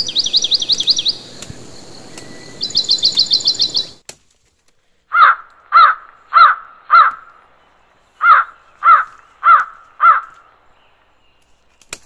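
Birds calling: two fast trills of high, quickly repeated notes, then after a short pause eight loud harsh calls in two runs of four, evenly spaced about half a second apart.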